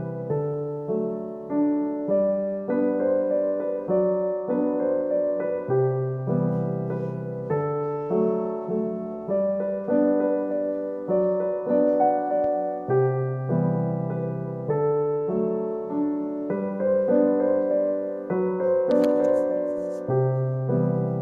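Gentle solo piano music, a slow melody over repeating chords.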